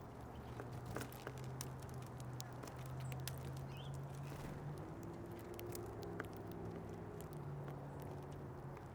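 Birds pecking and scratching at seed on a feeder, a scatter of small clicks and taps, with one faint short chirp about four seconds in. A low steady hum runs underneath, changing pitch around the middle.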